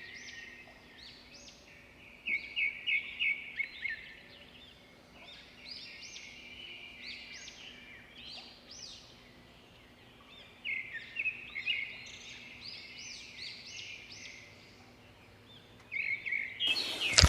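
Small birds chirping: rapid high chirps in several bursts of a few seconds each, with pauses between. A loud sudden noise near the end.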